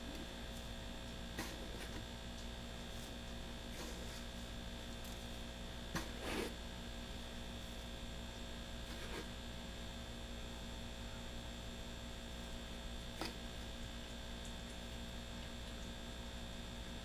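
Steady faint electrical mains hum, with a few soft clicks and taps from measuring flaxseed meal into a bowl, the clearest about six seconds in.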